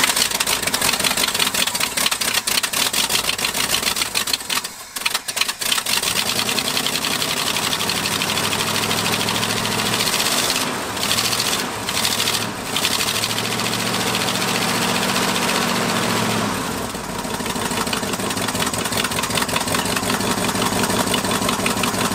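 Ford big-block V8 in a 1974 F350, just brought back to life on gasoline poured down the carburetor after years of sitting, running roughly with rapid, uneven firing. The sound dips briefly about five seconds in.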